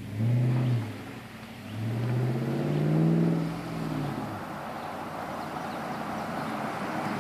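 2013 RAM 1500's 5.7-litre Hemi V8 revving through a Cherry Bomb Extreme muffler with the resonators deleted. There is a quick blip of the throttle, then a longer rev that climbs and falls back, and then it settles to a steady run.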